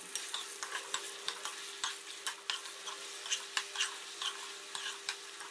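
Boneless chicken pieces deep-frying in hot oil in an aluminium pot, crackling with many small pops, while a steel spoon stirs them through the oil.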